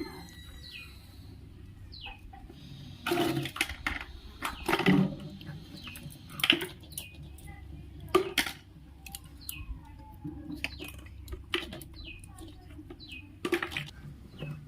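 Hands squishing and mashing soft, sticky bael fruit pulp in a bowl, with several loud wet squelches and knocks at irregular moments. Short falling bird chirps repeat in the background.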